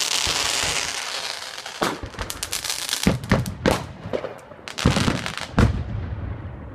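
Consumer fireworks going off: a loud hiss of sparks for the first couple of seconds, then a run of sharp bangs and crackling as shells burst overhead, the heaviest bangs in the second half.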